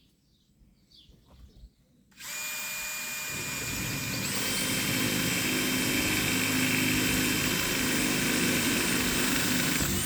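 Power drill with a 1/4-inch bit drilling through a metal conduit bracket: it starts about two seconds in, runs with a steady whine that steps up in pitch a couple of seconds later, and stops right at the end.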